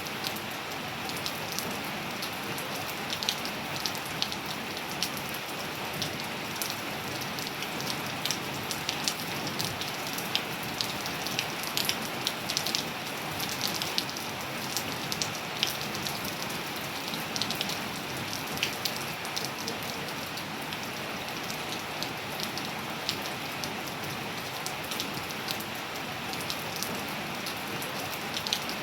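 Steady rain falling on surfaces: an even hiss with many sharp individual drop ticks scattered through it.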